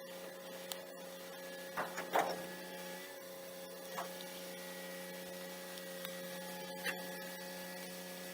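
Steady mechanical hum with a few faint, short clicks and knocks.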